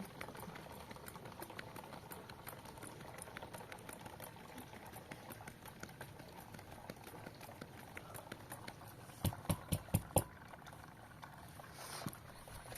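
Wood fire crackling and popping under the bread-baking hearth, with a quick run of about six sharp knocks about nine seconds in.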